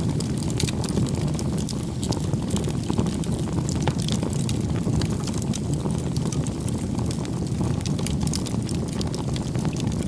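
Campfire crackling: a steady low rush from the burning wood with frequent small sharp pops and snaps.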